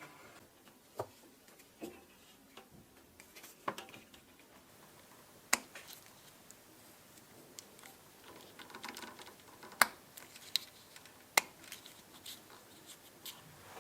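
Scattered sharp clicks and light taps, about eight at irregular intervals, from small parts and tools being handled, with a soft rustle about eight seconds in.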